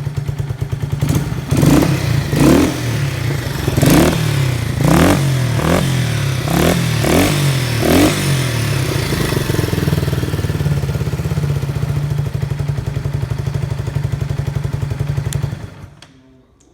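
Yamaha TW200's single-cylinder four-stroke engine through a 4-inch SuperTrap exhaust, idling and blipped in a quick series of revs, then settling back to a steady idle before cutting off near the end. It is presented as running without abnormal noise.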